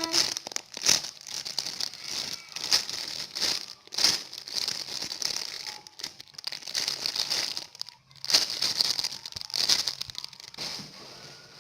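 Squishy toy packaging crinkling and rustling as it is handled, in irregular bursts.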